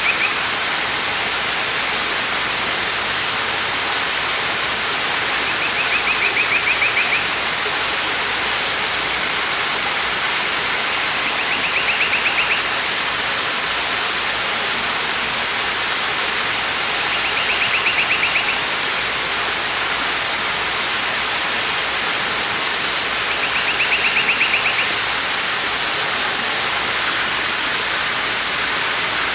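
Waterfall rushing steadily. About every six seconds a short, high, buzzy trill rises above it.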